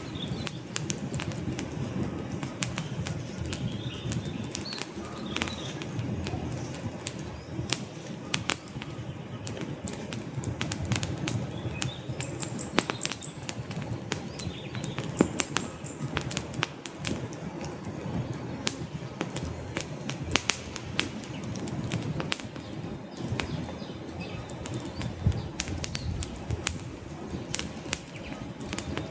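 Log fire crackling, with frequent sharp pops and snaps over a low, steady rush of burning.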